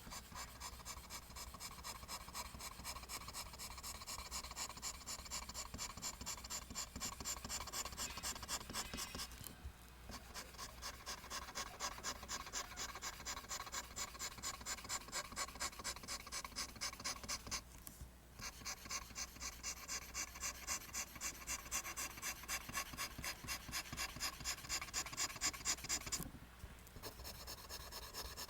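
Pencil scratching lines on paper in quick, even strokes, about four a second, in long runs with brief pauses about ten, eighteen and twenty-six seconds in.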